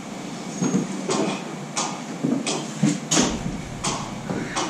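A series of irregular knocks and clatters, about eight in under five seconds.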